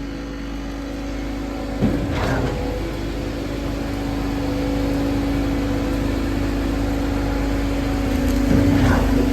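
An engine running steadily with a low rumble and a held hum. Its sound shifts in pitch briefly about two seconds in and again near the end.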